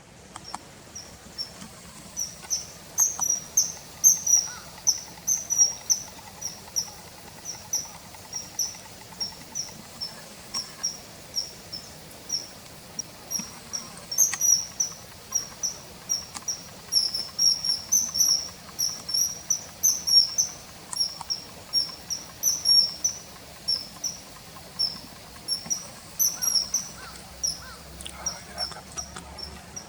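Common kingfisher calls: a long series of short, shrill, high-pitched whistled notes, several a second, sparser for a few seconds in the middle. A bird-guide recording of the calls.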